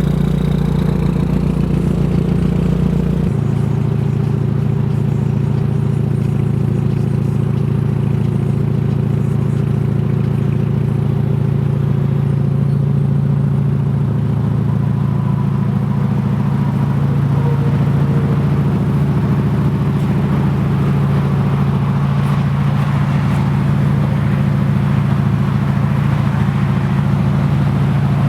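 2013 Hyundai Genesis Coupe 2.0T's turbocharged four-cylinder idling steadily through a 3-inch catless single-exit exhaust, the idle dropping slightly in pitch about three seconds in.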